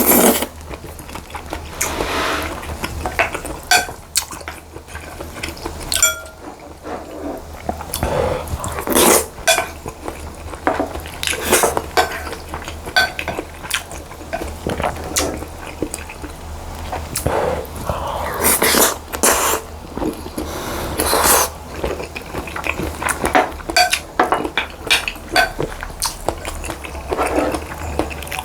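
Close-miked eating: a spoon and chopsticks clink against a bowl again and again, with chewing between the clinks.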